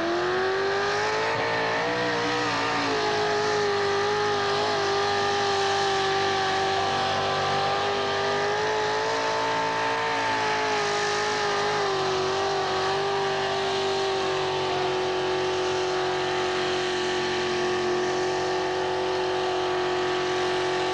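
A mud-racing car's engine held wide open at high, steady revs as it runs through the mud pit, the pitch wavering slightly as the wheels spin.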